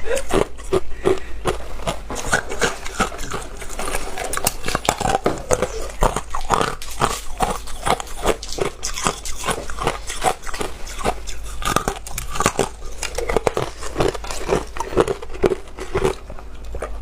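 A person biting and chewing ice, giving a dense, irregular run of sharp crunches and cracks, several a second.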